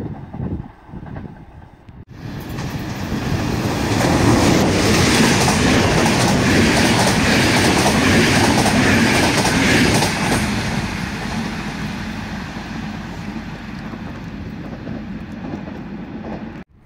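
Passenger train passing close by at speed, its wheels clattering on the rails. The noise builds over a couple of seconds, stays loud for about six seconds, then fades as the train moves away. Before that, for about two seconds, wind buffets the microphone.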